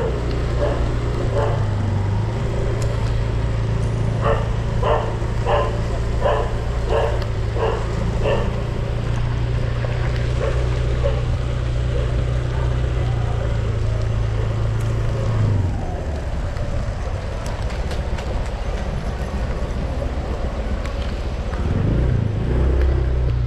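A vehicle engine running steadily, dropping off about two-thirds of the way through and picking up again near the end. About four seconds in, a dog barks around eight times, roughly two barks a second.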